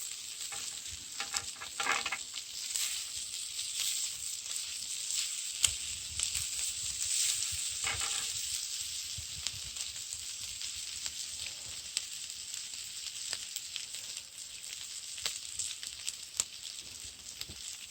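Food sizzling as it fries over a campfire: a steady, high hiss with scattered sharp crackles.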